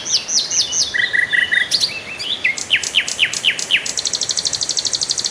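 Several songbirds singing and calling: quick falling whistled notes repeated in short series, with a fast, even high-pitched trill joining about four seconds in.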